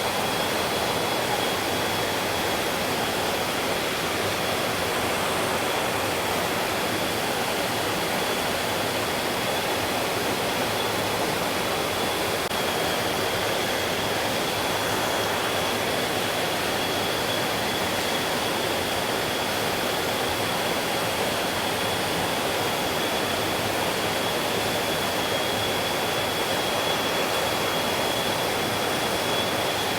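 Mountain stream running, a steady, even rush of water. A thin, steady high tone sits over the water sound.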